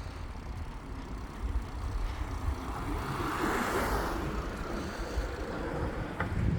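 Wind rumbling on the microphone of a moving bicycle, with a vehicle passing by: its noise swells to a peak about three and a half seconds in, then fades.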